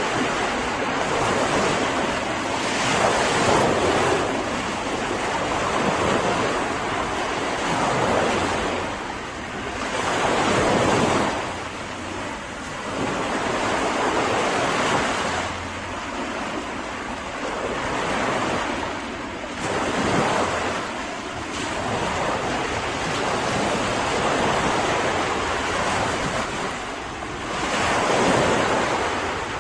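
Mediterranean sea waves washing onto a beach, the surf noise swelling and easing every few seconds.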